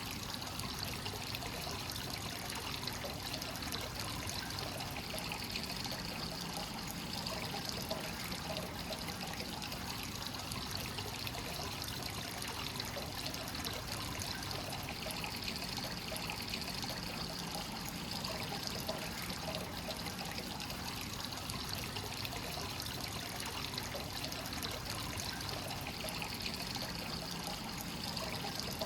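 Hot spring water flowing without pause from the source into the bath, a steady trickling, splashing pour with gentle swells.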